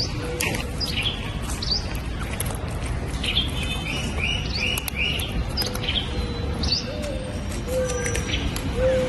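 Small birds chirping repeatedly, with a quick run of four similar chirps midway, over a low background hum. Scattered faint clicks come from cats crunching dry kibble.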